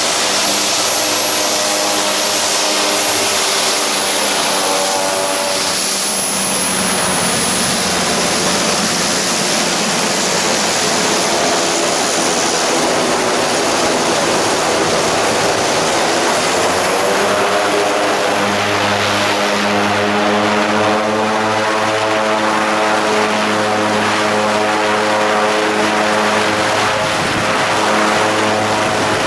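A steady engine drone under a loud, continuous rushing noise, with the engine's pitch shifting slightly and growing stronger about two-thirds of the way through.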